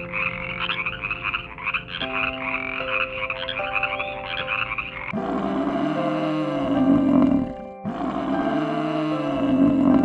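A toad calling in a rapid pulsing trill for about five seconds, then a water buffalo lowing twice in long, low calls that rise and fall in pitch, over soft background music.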